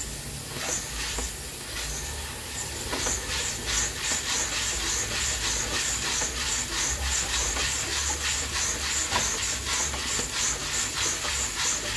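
Coffee beans roasting in an old-fashioned coffee roaster, hissing and sizzling with a regular swish about three times a second as the beans are turned, growing stronger a few seconds in.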